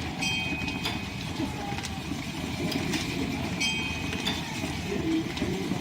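Line-shaft-driven wood lathe running: a steady, dense rumble of shafting, belts and pulleys, with scattered clicks and two brief high-pitched tones, one near the start and one past the middle.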